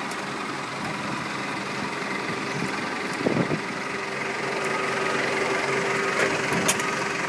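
A motor running steadily at idle, with a few knocks a little over three seconds in and two sharp clicks near the end.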